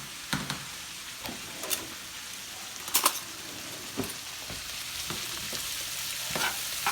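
Cabbage and bacon sizzling in a frying pan, with a utensil scraping and clicking against the pan as it is stirred.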